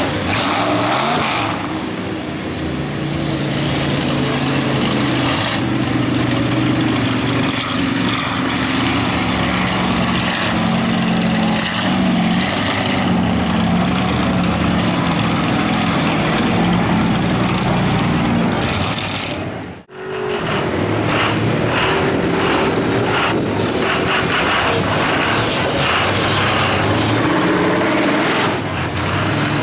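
Big mud truck engine revving hard under load, its pitch rising and falling, over a constant noisy wash. The sound cuts out abruptly for a moment about two-thirds of the way through, then the engine is heard again.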